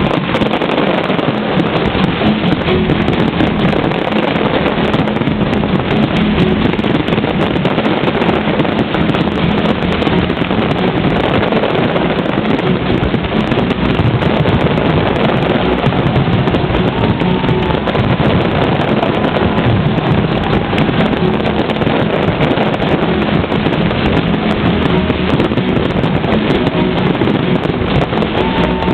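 Fireworks display going off continuously: a loud, dense rumble and crackle with no single bang standing out.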